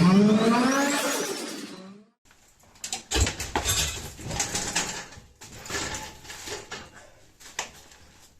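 Car engine revving, rising in pitch, then cutting off abruptly about two seconds in. Quieter irregular knocks and clatter follow, with one heavier thud about a second later.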